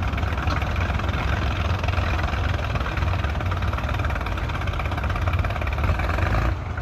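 Tractor diesel engine running steadily with a deep, even rumble, easing slightly just before the end.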